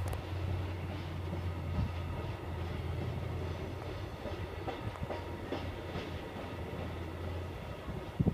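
Distant freight train of container wagons rolling across a high stone arch viaduct: a steady low rumble with light clicks of wheels over rail joints. The low drone drops away near the end.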